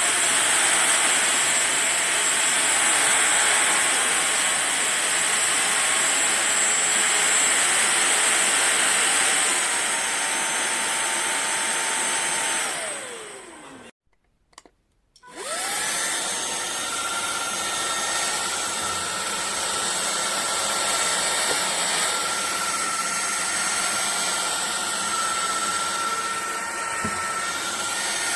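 Fieety cordless stick vacuum cleaner's motor running with a steady whoosh and high whine. About halfway through it is switched off and winds down with a falling pitch, goes quiet for about a second, then is switched back on, spins up quickly and runs steadily again at a slightly different pitch.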